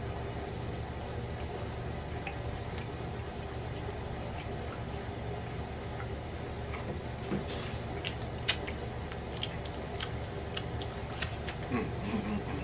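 Eating sounds from a man chewing pork chop meat, with scattered sharp mouth clicks and smacks, most of them in the second half and the loudest about eight and a half seconds in, over a steady low hum.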